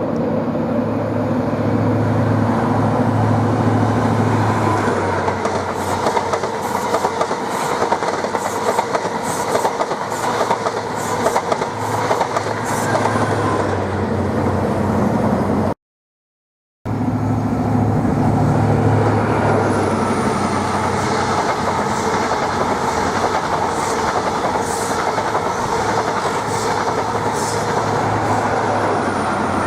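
A train passing at a station: a steady low traction hum with runs of wheel clicks over rail joints and a faint high wheel squeal. The sound cuts out for about a second halfway through, and then a similar passage follows.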